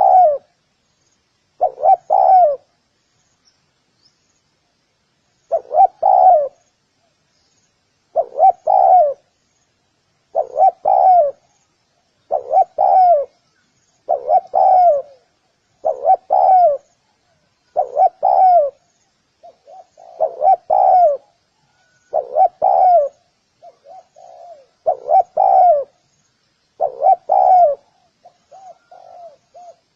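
Spotted dove cooing: a short phrase of a few coos repeated about every two seconds, with a longer pause early on. Softer, lower notes fill some of the gaps in the second half.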